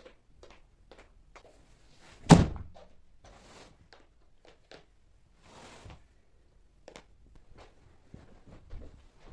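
Household objects being handled: scattered light clicks and knocks, with one loud thud a little over two seconds in and two short brushing swishes.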